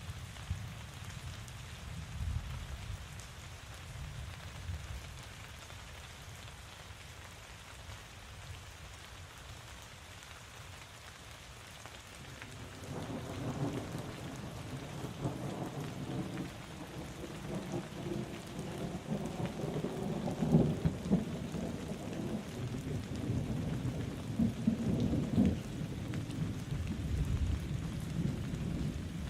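Steady rain falling, with a long rolling rumble of thunder that comes in about halfway through and builds, loudest in the last third.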